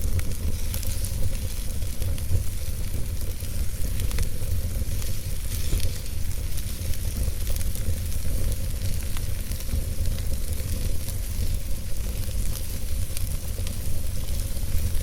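Wood fire burning in a fireplace: a steady hiss with scattered crackles and pops over a low rumble.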